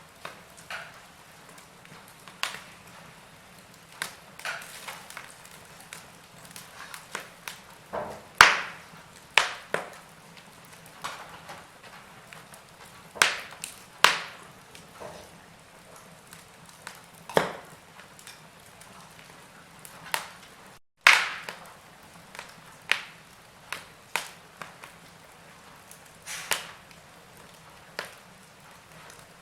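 Wood fire in a fireplace crackling: irregular sharp pops and snaps, some loud, over a soft steady hiss. The sound drops out to silence for a fraction of a second about two-thirds of the way through.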